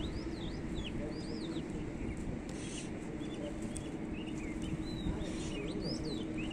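Small birds chirping: many short, quick up-and-down chirps, over a steady low rumble.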